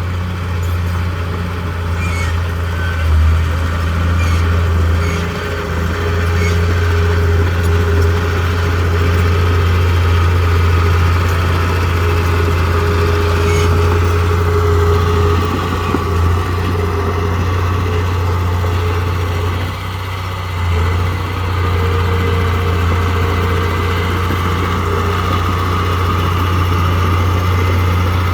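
Heavy diesel engine of earthmoving machinery running steadily, with a strong low hum and a short drop in level about two-thirds of the way through.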